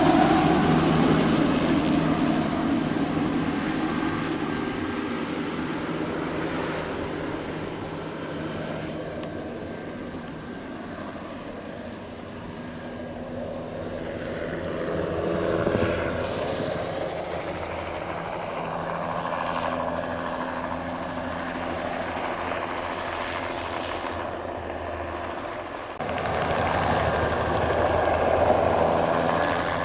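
Turbine helicopter flying a crop-spraying pass, its rotor and engine running steadily with a high steady whine over the beat. Loudest at the start, it fades over the first ten seconds or so, grows louder again, and steps up suddenly near the end.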